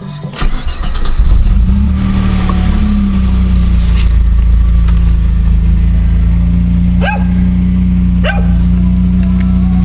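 Opel Calibra's C25XE 2.5-litre V6 with a custom exhaust starting about half a second in, surging briefly, then running at a steady idle. A dog barks three times in the second half.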